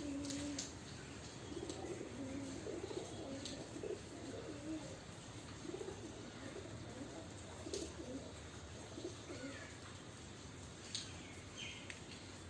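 Domestic pigeons cooing: low, wavering coos repeated through most of the stretch, with a few short sharp clicks among them.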